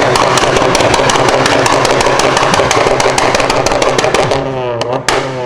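Modified car engine revving hard and held high, with rapid crackling pops from the exhaust; near the end the revs drop and rise again.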